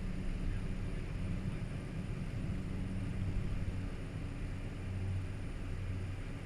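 Cessna 208 Caravan's PT6A turboprop engine and propeller running steadily, heard from inside the cockpit: a low even drone with a faint high whine over it.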